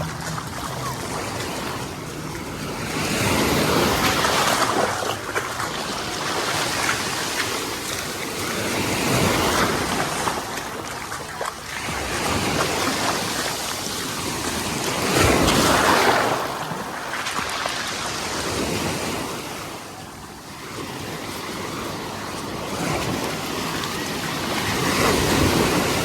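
Small sea waves washing up and breaking on the beach, the surf swelling and easing every few seconds, loudest about halfway through.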